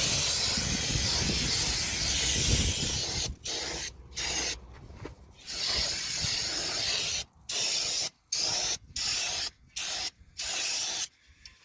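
Aerosol can of brake cleaner spraying: one long hissing spray for about three seconds, then a run of short bursts with pauses between them, stopping near the end.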